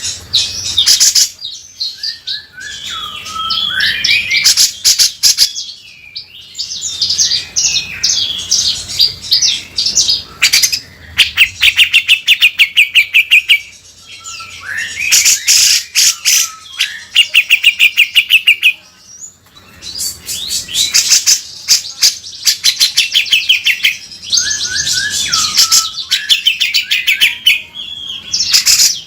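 Grey-cheeked bulbul (cucak jenggot) singing loud bouts of chattering phrases and fast, rasping runs of repeated notes, broken by brief pauses.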